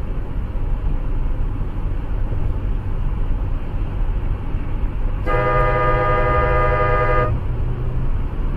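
A car horn blares once for about two seconds, a little past the middle, over a steady low rumble of engine and road noise.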